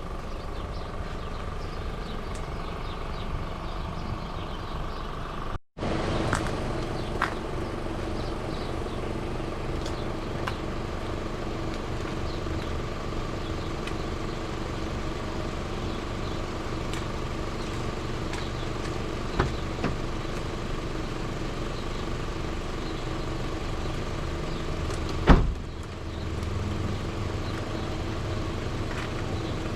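A car engine idling steadily, with a brief dropout about five and a half seconds in and two sharp knocks, the louder one about twenty-five seconds in.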